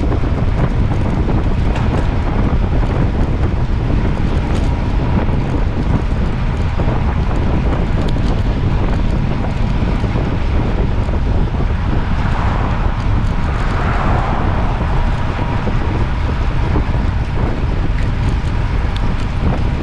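Wind buffeting the microphone in a steady low rumble, with a brief swell of higher hiss a little past halfway.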